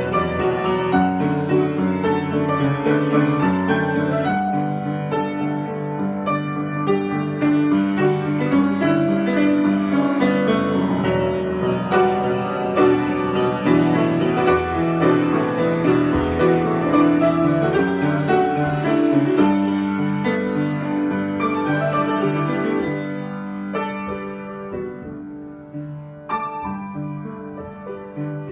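Solo piano playing an improvised piece with many sustained, overlapping notes. It grows softer in the last few seconds.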